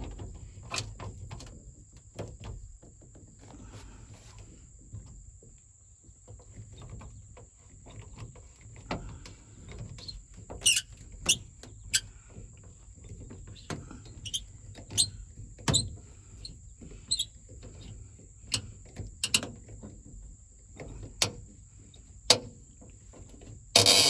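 Irregular clicks, clinks and knocks of metal parts and hand tools while a 1971 Chevy C10 door handle and lock are taken apart, with a few sharper metallic clinks and a loud pair of them near the end.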